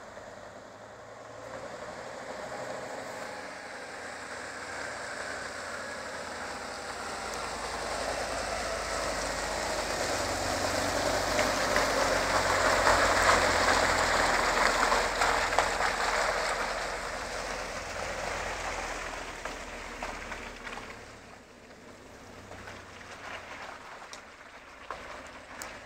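Tatra 815 truck driving past: its air-cooled diesel engine and tyres grow steadily louder, peak about halfway through, then fade away.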